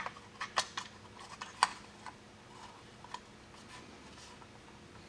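Light clicks and taps of a cover being handled and fitted back in place on an air compressor, a quick series in the first two seconds and a few more by about three seconds in.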